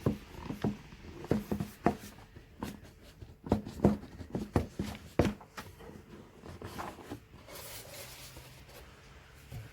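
A cardboard product box being opened and handled by hand: a run of sharp knocks, clicks and scrapes from the box and packaging for about five seconds, then a softer sliding, scratchy rustle near the end.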